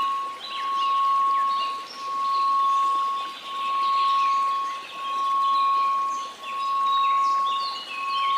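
A steady 1098 Hz pure tone that swells and fades about every second and a half, over a soft hiss of white noise, with birdsong chirping throughout.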